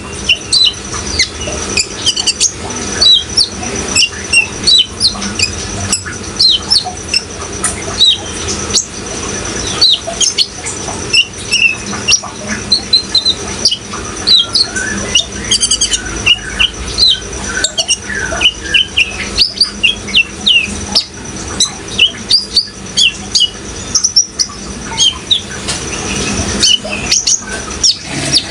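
A kolibri ninja sunbird singing a rapid, continuous run of high, short chirps and twitters over a steady background of running water.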